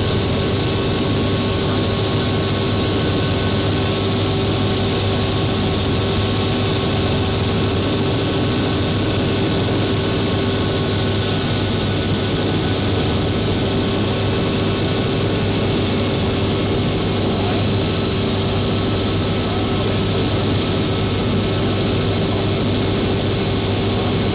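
Helicopter in flight, its turbine and rotor running steadily with a loud, even noise and a constant hum.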